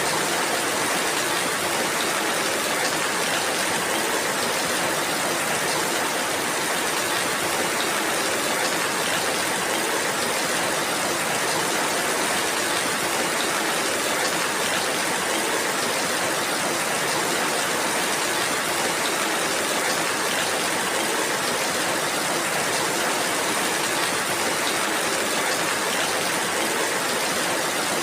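Steady rainfall, an even hiss with fine, dense patter of drops and no change in strength.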